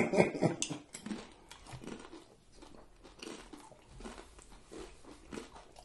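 A tortilla chip bitten into and chewed close to the microphone: a loud crunch at the start, then softer, scattered crunching as it is chewed.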